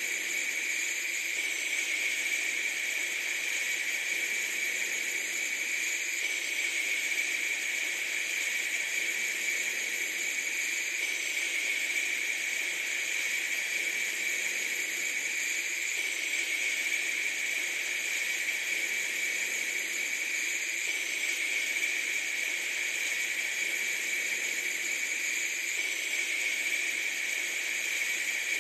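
Steady, even hiss with no breaks or distinct events.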